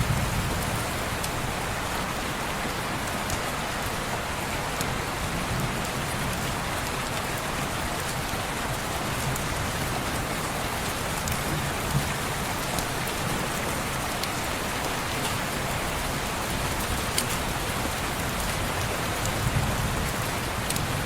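Steady rain falling on window glass, a constant even hiss with scattered sharp ticks of single drops and a low rumble underneath.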